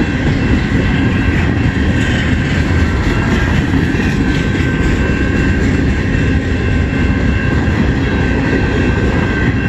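CN freight train cars rolling past close by: a steady loud rumble of wheels on rail with a thin, steady high ring over it.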